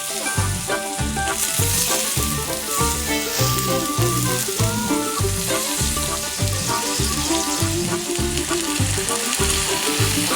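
Sukiyaki beef frying in a pan with a steady sizzle, under background music with a regular beat.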